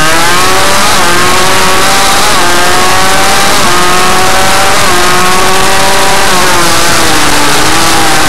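Suzuki RM85 minimotard's two-stroke engine running hard, its revs climbing and dropping back several times.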